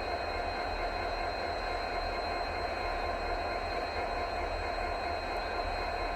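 Train running steadily: a WDP4D diesel locomotive hauling a passenger train, an even rumble with a constant hum.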